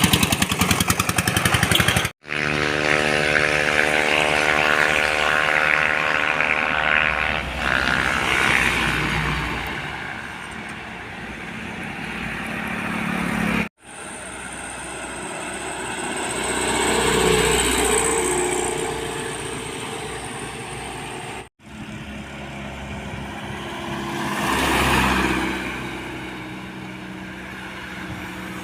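Engines of heavy trucks and other road vehicles, heard in several short clips that break off abruptly. Early on one engine runs steadily with a strong even hum. Later, vehicles approach and pass, swelling louder twice.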